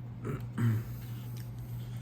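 Two brief throaty vocal sounds from the person eating, like a small hum or gulp, the second louder, over a steady low electrical hum.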